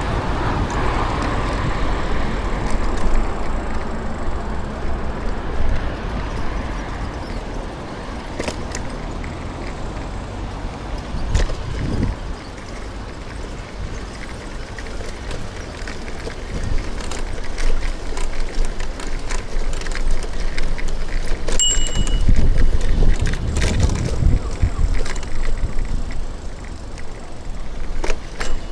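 City traffic heard from a bicycle on the move: a steady rumble of road and motor-vehicle noise with vehicles passing, the loudest swell a little past the middle, and a few short clicks.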